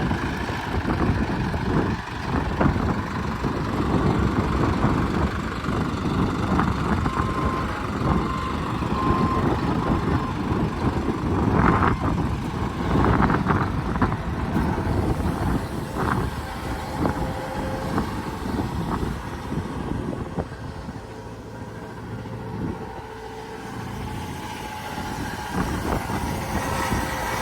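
Hino 185 medium-duty diesel truck engine running steadily, with three short beeps about eight seconds in and a few knocks in the middle.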